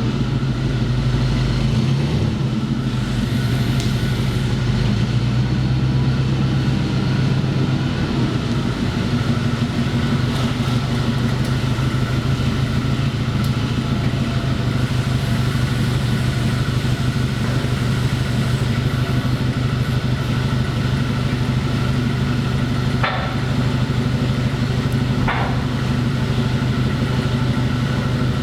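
A motor or engine running steadily with an even hum, with two short knocks about two and a half seconds apart near the end.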